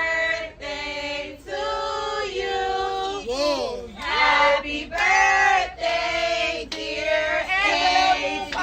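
Several high voices singing together, holding drawn-out, wavering notes one after another.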